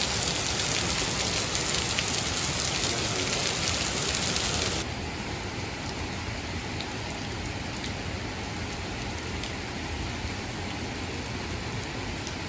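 Steady rain falling, an even hiss that drops suddenly to a softer level about five seconds in.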